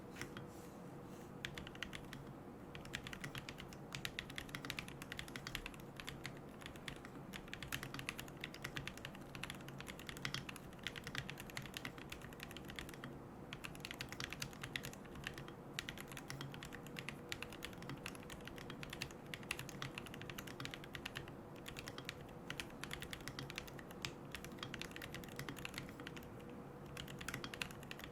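Continuous typing on a mechanical keyboard with Gateron Moon Landing switches: a dense, irregular stream of keystroke clacks. The keyboard is a QK75N with a carbon plate, no foam and MilkyWay Poker keycaps.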